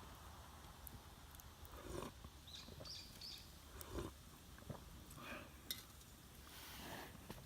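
Faint outdoor ambience: a few short, high bird chirps about two and a half to three seconds in, with scattered soft clicks and knocks.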